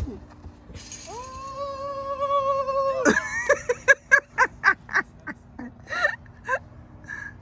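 A sharp knock, then a child's long held celebratory shout followed by a run of short, quick vocal bursts, about four a second.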